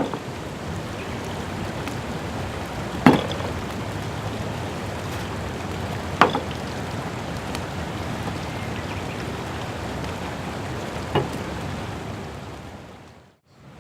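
Wood campfire burning with a steady crackle and three sharp pops about three, six and eleven seconds in, fading out near the end.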